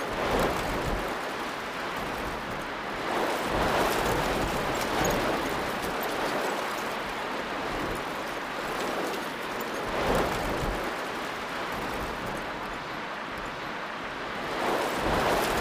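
Steady noise of heavy rain and rushing floodwater, swelling and easing every few seconds.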